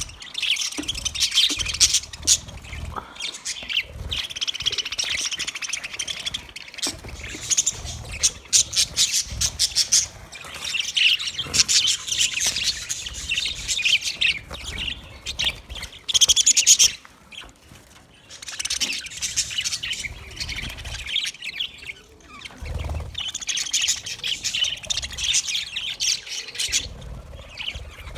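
A flock of budgerigars chattering and warbling, with rapid chirps and squawks in bursts of several seconds and a short lull about two-thirds of the way through.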